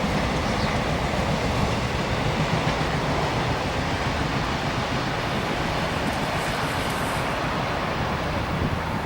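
Victorian Railways X-class and B-class diesel-electric locomotives running under power with a heritage passenger train, a steady diesel engine rumble mixed with rail noise.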